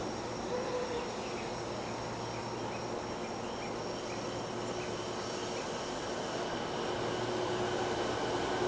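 Crickets chirping, a short chirp about twice a second over steady high insect trilling, with a steady low hum of a stopped electric train beneath. The overall sound swells slightly near the end as the train begins to move.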